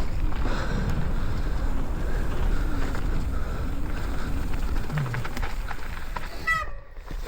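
Wind buffeting the microphone over the rumble of a mountain bike riding fast down a dirt trail. Near the end there is a brief squeak, and the rushing noise drops off.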